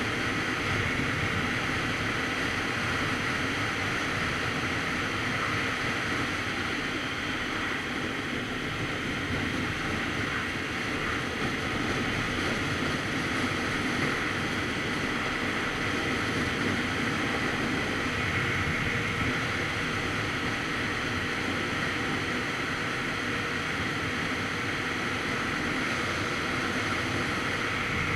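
Steady wind noise buffeting the microphone of a motorcycle at riding speed, with the Kawasaki Z900RS Cafe's engine running underneath; level and even throughout, with no changes in speed.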